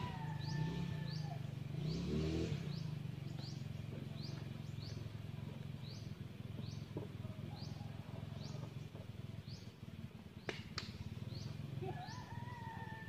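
Bird calls: a short rising chirp repeated about once a second, with a longer level whistle at the start and again near the end, over a steady low rumble. A single sharp click comes about ten and a half seconds in.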